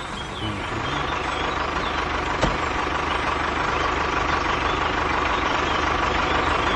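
Tractor engine running steadily, growing slightly louder as it approaches, with a single sharp click about two and a half seconds in.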